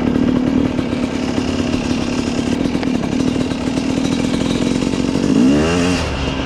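Yamaha YZ250 single-cylinder two-stroke dirt bike engine running at a steady pitch, then rising briefly in revs about five seconds in before falling back.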